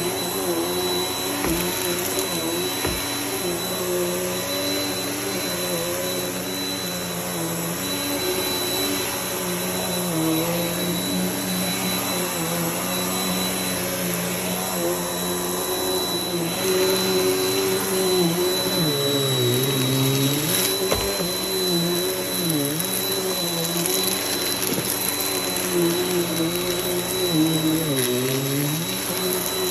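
Vacuum cleaner running steadily, with a thin high whine over the motor note. Several times in the second half the motor pitch dips briefly and recovers.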